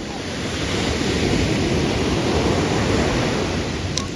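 Sea surf breaking on a beach: a wash of wave noise that swells about a second in and eases off toward the end.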